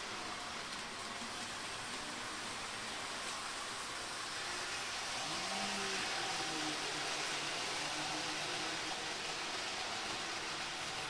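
Model train running on its layout: a steady rushing hiss of wheels and motor, with a faint hum that rises in pitch about five seconds in and then holds steady.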